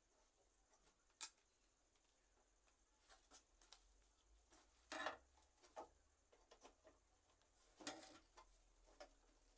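Faint, scattered clicks and light knocks, a few at a time with pauses between, the loudest about five seconds in and again near eight seconds.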